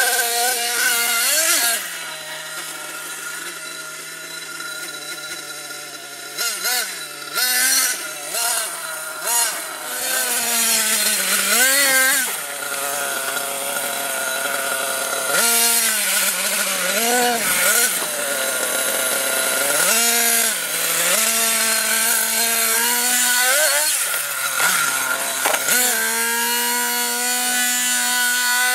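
Small nitro glow engine of an RC monster truck buzzing, with a steady lower note for a few seconds near the start, then revved in repeated blips and runs, its pitch swooping up and down.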